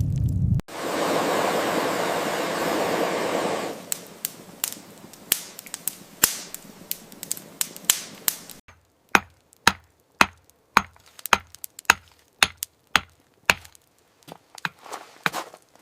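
About three seconds of loud rushing noise, then a long series of sharp taps or knocks. The knocks settle into a fairly regular beat of about two a second in the second half.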